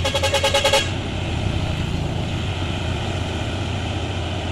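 Heavy diesel tanker truck engine running. There is a fast, even pulsing clatter in the first second that stops abruptly, followed by a steady low drone.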